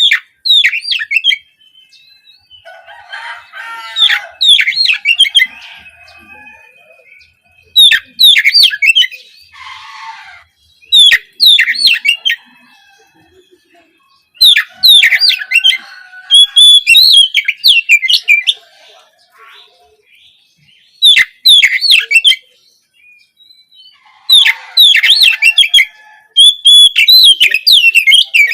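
Oriental magpie-robin (kacer) singing in loud bursts of rapid, varied whistles and chattering notes, phrases of one to three seconds broken by short pauses, with a few harsh, rasping notes mixed in.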